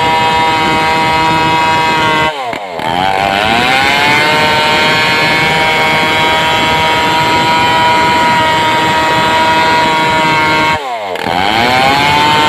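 Stihl two-stroke chainsaw running at high revs while sawing a large sengon log. Twice, about two seconds in and near the end, the engine speed drops suddenly and then climbs back up to a steady pitch.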